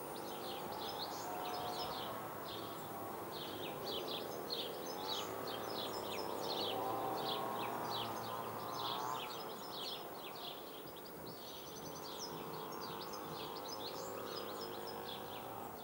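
Small birds chirping and singing in quick, repeated short notes over a steady background hiss of outdoor ambience.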